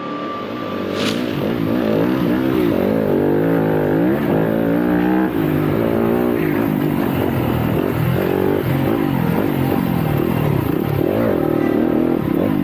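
Yamaha YZ250FX four-stroke single-cylinder dirt bike engine being ridden hard, its pitch repeatedly rising and falling with throttle and gear changes.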